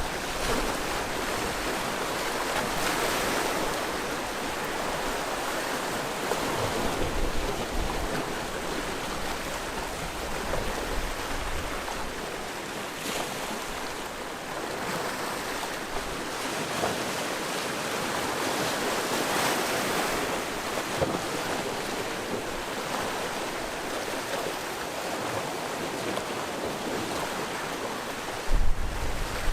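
Sea waves washing ashore: a steady wash of surf that swells twice, with waves breaking a few seconds in and again about twenty seconds in. Near the end a gust of wind buffets the microphone with a low rumble.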